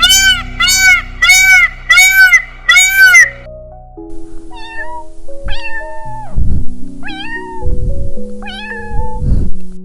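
A domestic cat meowing four times, each meow falling in pitch, over background music. Before the meows, about the first three seconds hold a fast run of six repeated chirp-like calls.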